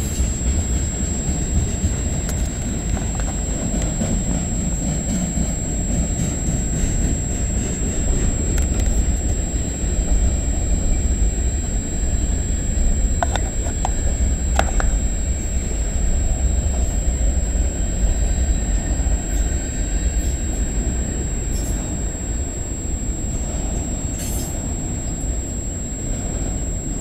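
CN freight train's cars rolling past: a steady low rumble of wheels on rail, with a few short sharp sounds about halfway through.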